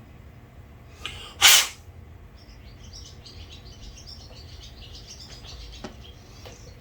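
A short, loud hiss about a second and a half in, during carburetor cleaning, followed by birds chirping over a low steady hum.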